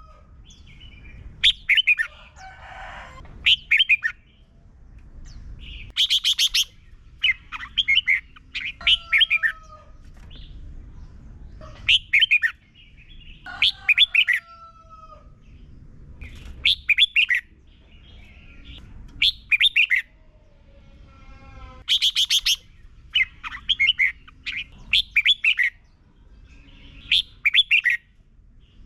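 Red-whiskered bulbul singing: short bursts of quick, bright chirping notes repeated every second or two. Fainter sliding whistles from other birds come in between the phrases.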